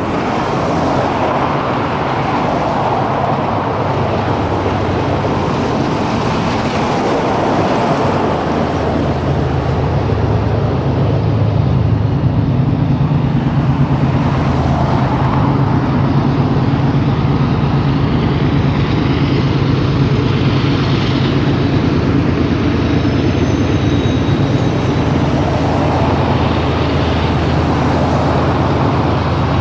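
A train passing at close range: a steady low engine drone, growing stronger about ten seconds in, under the constant noise of the rolling train.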